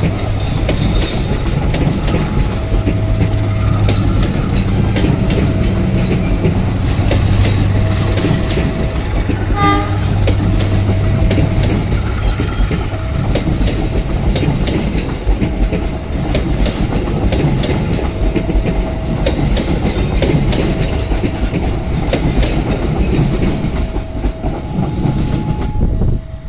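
Passenger train coaches rolling past at close range, their wheels clattering steadily over rail joints and points. The sound drops off abruptly near the end as the last coach goes by.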